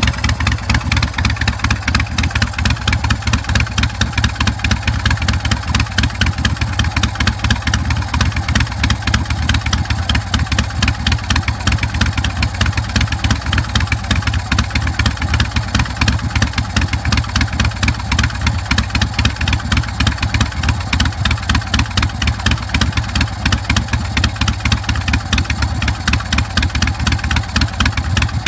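A 2006 Big Dog K9 chopper's carbureted 117 cubic inch S&S V-twin idling steadily through its Vance & Hines Big Radius exhaust, an even run of exhaust pulses that holds unchanged.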